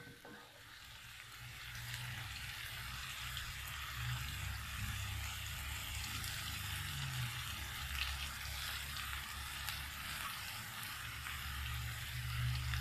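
Ground chili paste frying in oil in a wok, sizzling steadily, the sizzle building over the first couple of seconds. A steady low hum runs underneath.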